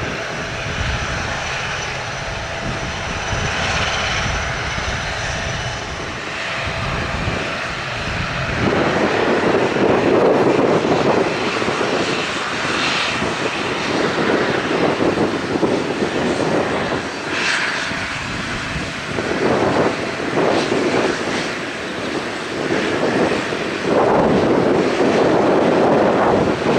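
Airliner engines running on the airfield, a continuous rumble that swells in uneven surges, mixed with strong gusting wind.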